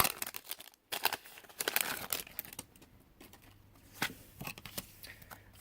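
Foil Pokémon Evolutions booster pack wrapper crinkling and tearing as it is opened, loudest in the first two seconds, then settling into faint rustles and a few soft clicks.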